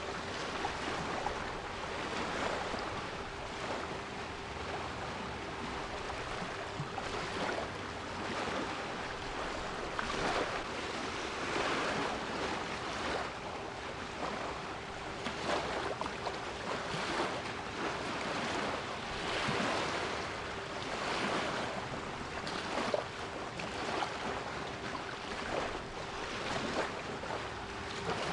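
Sea waves washing and breaking in irregular surges, with a steady 396 Hz pure tone held underneath.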